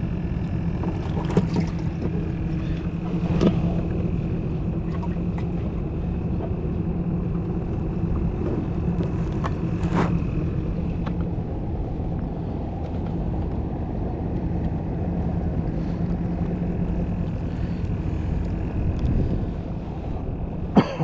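Steady hum of a small motor aboard a fishing skiff, with a few sharp knocks scattered through it.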